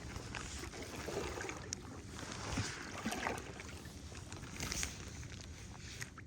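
Wind and rain noise around a small fishing boat, swelling several times in gusts.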